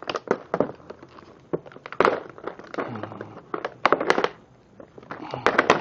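Plastic packaging crinkling and crackling as it is handled and stuffed into a bag, in irregular crackles, loudest about two, four and five and a half seconds in.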